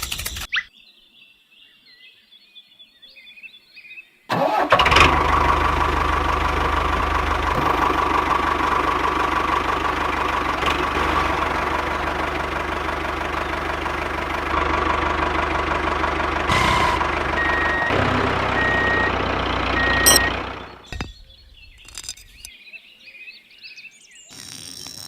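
A mini diesel engine starts suddenly about four seconds in, runs steadily for about sixteen seconds, then shuts off.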